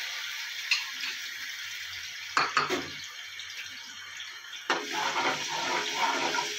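Garlic-ginger paste sizzling as it fries in hot oil in a steel pot. A couple of metal clinks about halfway through, then the frying grows louder as a spoon stirs it, with short repeated scrapes.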